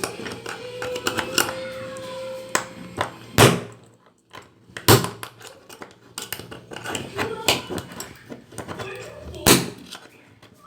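Sharp knocks and clatter of parts being handled on a workbench, with three loud knocks about three and a half, five and nine and a half seconds in.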